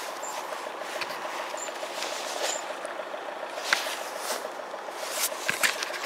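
Steady rain hiss with a faint fast pulsing tone underneath, broken by scattered sharp clicks and knocks from the camera being handled while its lens is wiped.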